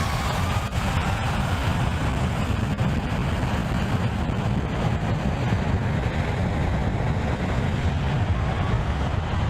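Engine blast from an airplane spooling up for takeoff, heard from behind it: a loud, steady rush of air with a heavy low rumble, and wind buffeting the microphone.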